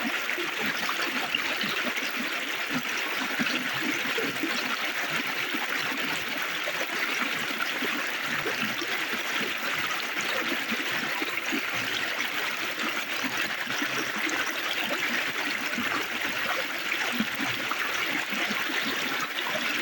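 Shallow river water flowing and trickling over stones in a steady, unbroken babble.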